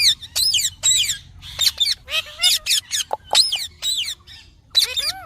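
A parrot giving a quick run of short, high-pitched chirps and squawks, each one sliding up and down in pitch.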